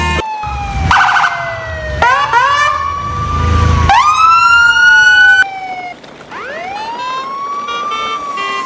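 Siren wailing in slow falls and rises, each sweep taking about two seconds, with a second overlapping tone sweeping up near two and four seconds in. A low rumble sits underneath until about five and a half seconds in, where the sound drops briefly in loudness.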